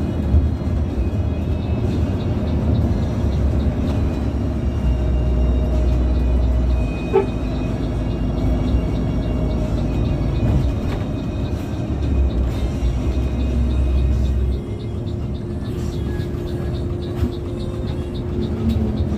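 A moving coach bus, heard from inside: a steady low rumble of engine and road that swells and eases, with music playing over it. There is a brief sharp knock or click about seven seconds in.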